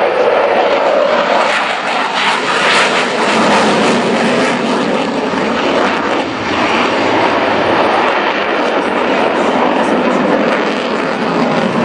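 Loud, steady rushing jet noise from an F-16AM Fighting Falcon's Pratt & Whitney F100 turbofan engine, swelling and easing slightly as the fighter flies.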